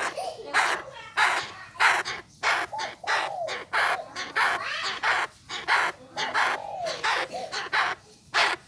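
Chinese francolin calling: a long run of short, harsh, grating notes, about two or three a second.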